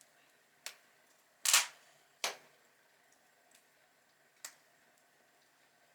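Outdoor log fire crackling: four sharp pops, the loudest about a second and a half in, with a few faint ticks between them.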